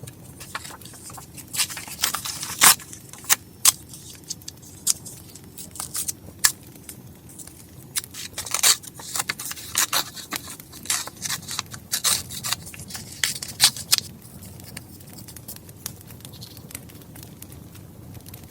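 Close, sharp clicks and scrapes of paper and stationery being handled in quick irregular bursts that stop near the end, over a soft steady crackle of a wood fire.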